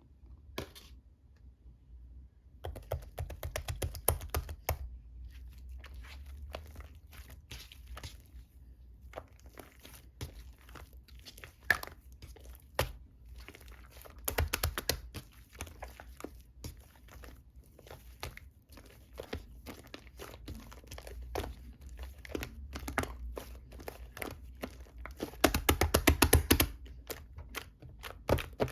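Slime mixed with shaving foam being squished and kneaded by hand: a run of small sticky crackles and pops, in thicker flurries about three, fifteen and twenty-six seconds in.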